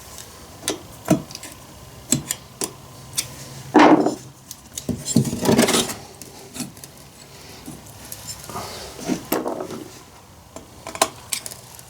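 Small metal chainsaw parts clicking and knocking as the piston and cylinder are handled and fitted together by hand, with a few louder scuffs a few seconds in.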